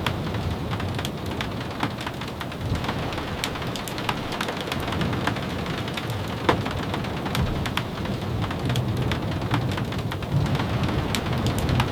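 Steady rain falling, an even hiss with many scattered sharp taps of drops and a low rumble underneath.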